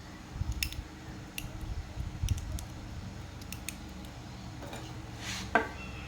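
Scattered small clicks and taps of hand work on the pump motor, with a short scrape about five seconds in and a sharper click just after it, over a low steady hum.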